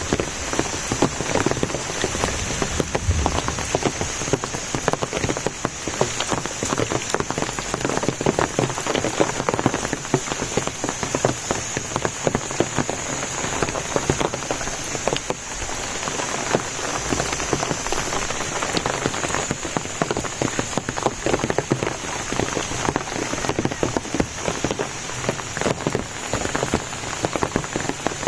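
Steady rain falling, a dense patter of many drop hits. A steady high-pitched tone runs through it.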